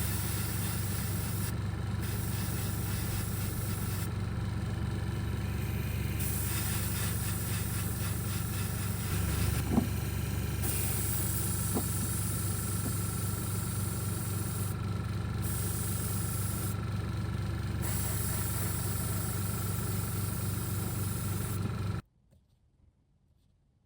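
A small motor runs steadily with a low hum and an even hiss, then cuts off suddenly near the end.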